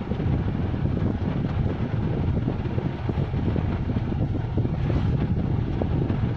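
Strong wind buffeting the microphone: a steady, gusty low rumble with no distinct tones.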